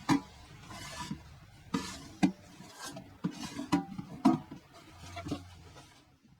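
Empty tin cans being handled: a run of irregular sharp metal clinks and knocks, each ringing briefly, with light scraping between them.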